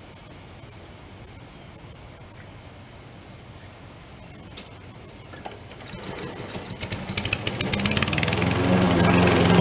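Gas lawn mower engine starting up about six seconds in, running unevenly at first and then settling into loud steady running. Before that there is only a faint outdoor background.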